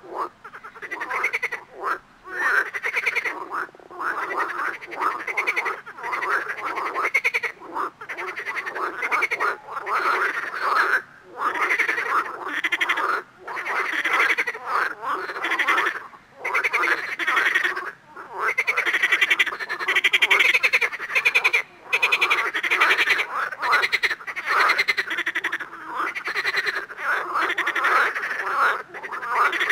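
Frogs croaking in a dense chorus of rapid pulsed calls, broken by short pauses every few seconds.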